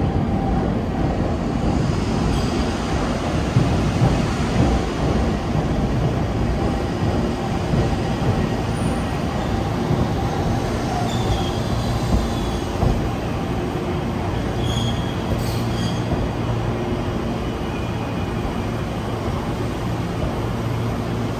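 Chikuho Electric Railroad Type 2000 articulated electric car rolling slowly over the points into a covered station: a steady wheel-on-rail rumble with a few knocks at the rail joints and brief high wheel squeals about two-thirds of the way in. Near the end the rumble settles into a steady low hum.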